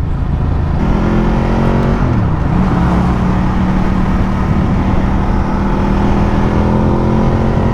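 Ducati Multistrada motorcycle engine running under way, heard over wind and road noise. Its pitch dips briefly about two seconds in, then holds steady.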